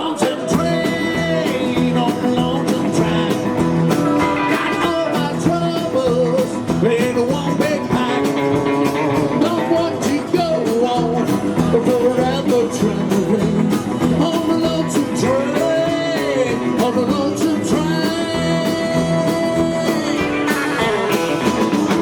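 Live rockabilly band playing with guitar and singing, a steady rock-and-roll beat.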